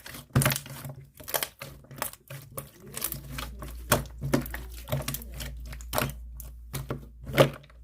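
Clear pink slime squeezed and pressed by hand, giving an uneven run of sticky clicks and pops, about two a second.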